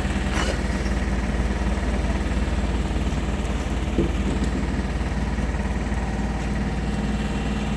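Engine of a mastic asphalt cooker running steadily at idle, an even low hum, with a small knock about four seconds in.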